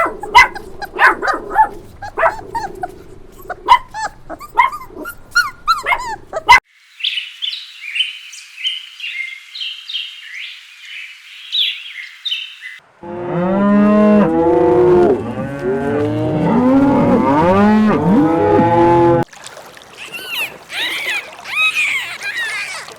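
Animal calls in several abrupt cuts: short sharp calls for the first six seconds, then high chirping calls, then a loud chorus of many overlapping calls for about six seconds, then high calls again near the end.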